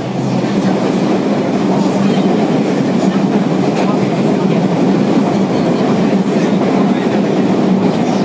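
Running noise inside a JR Kyushu 305 series electric train, recorded in a motor car: a steady, loud rumble of wheels and running gear with a low hum, and faint ticks of the wheels on the rail. It grows louder just after the start.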